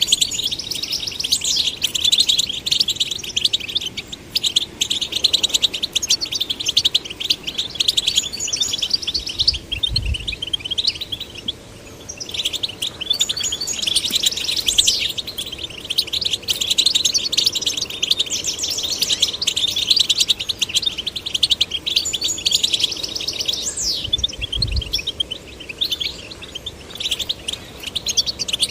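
European goldfinch song: a fast, continuous run of twittering chirps and trills with a few short pauses. Two brief low thuds come through about a third of the way in and again near the end.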